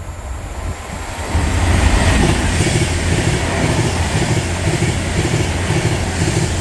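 Class 390 Pendolino electric train passing through the station at speed: a loud rush of wheels and air that builds about a second in, with a steady rhythmic clatter of the wheels over the rail joints.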